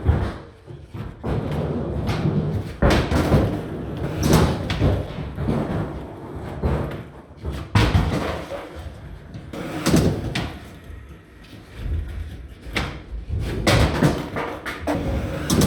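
Skateboard wheels rumbling on ramps, broken by repeated sharp clacks and bangs of boards and trucks hitting the ramps and coping, echoing in a large indoor park.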